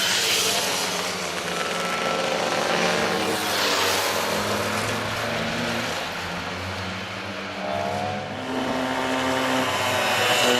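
Pre-1980 motorcycle engines running and revving, several at once, with engine notes rising and falling. Louder swells come about four seconds in and near the end, as machines pass close.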